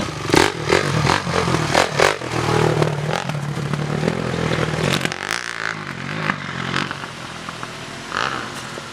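A vehicle engine pulls over a rough off-road trail, with clattering and knocking from the bouncing vehicle. About five seconds in, the engine eases off and only lighter rattles and knocks are left.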